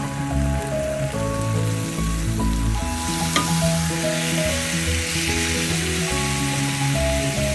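Marinated chicken breasts sizzling steadily on a hot cast-iron grill pan, the hiss swelling a little in the second half, with one sharp click a little past three seconds in. Background music with held, changing notes plays throughout and is as loud as the sizzle.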